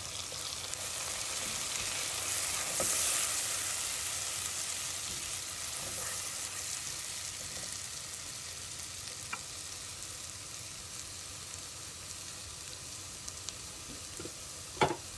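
Finely chopped onion sizzling in melted butter in a pot: a steady frying hiss that swells a little a few seconds in. A sharp knock near the end.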